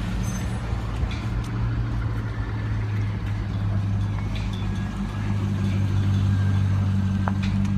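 C5 Chevrolet Corvette V8 engines running at low speed, a steady low exhaust note, as the cars creep by in a slow procession. The note grows louder about five seconds in as one car passes close.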